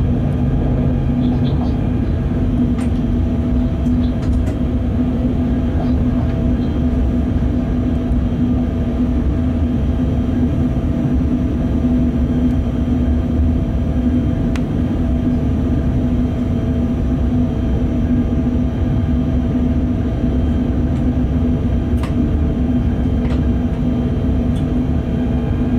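Freight train heard from inside the locomotive cab while running at speed: a steady hum over a continuous low rumble of wheels on rails, with a few faint clicks.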